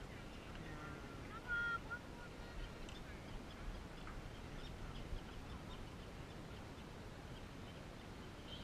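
A few short bird calls, the loudest about one and a half seconds in, over steady low wind and water noise.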